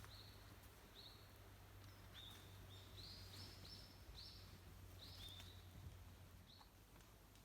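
A bird calling faintly outdoors: a run of about a dozen short, high chirps, several a second in the middle, over a faint low hum.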